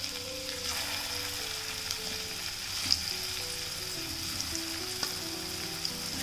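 Taro root (arbi) pieces frying in hot oil in a kadhai as raw pieces are slipped in one at a time: a steady sizzling hiss with scattered crackles and pops, the sharpest about three seconds in.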